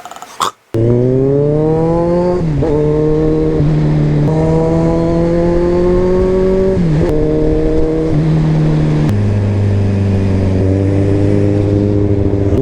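Kawasaki Z1000 inline-four motorcycle engine accelerating through the gears. Its pitch climbs, then drops at each shift, about four times, and it runs at a steadier, lower pitch for the last few seconds.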